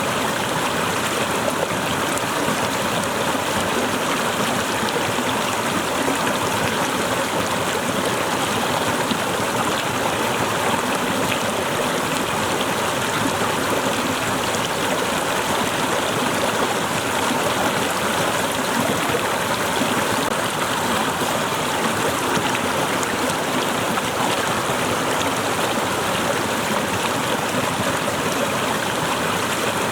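Waterfall: water falling and splashing steadily, with no pauses or changes.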